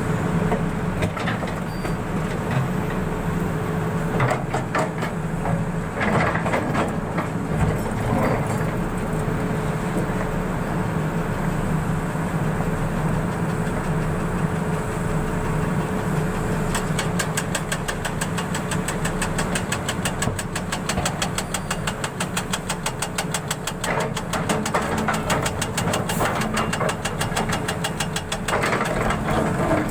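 An engine running steadily, with a fast, even ticking through the latter half.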